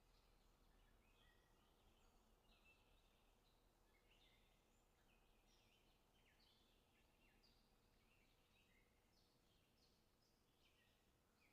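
Near silence, with faint, busy bird chirping: many short, quick, gliding calls overlapping throughout.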